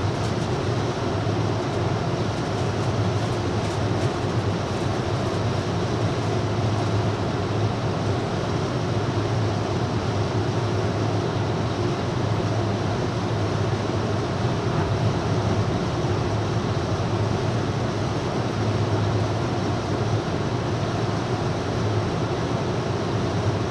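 Steady rumbling rail noise of a passenger train running alongside a long freight train, heard from inside the passenger train's dome car.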